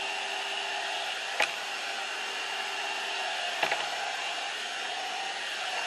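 One Step hot-air brush (blow dryer and styler in one) running on its high setting: a steady rush of air with a thin motor whine. Two short clicks sound about a second and a half in and again near the four-second mark.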